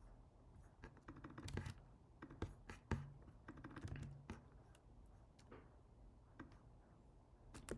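Faint computer keyboard keystrokes in irregular short runs, thinning out in the second half.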